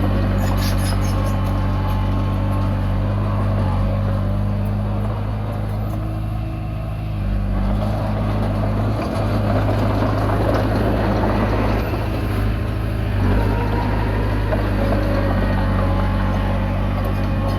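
Komatsu D20P bulldozer's diesel engine running steadily while working. Its note sags and recovers in the middle, with a rise in clatter and noise between the two sags.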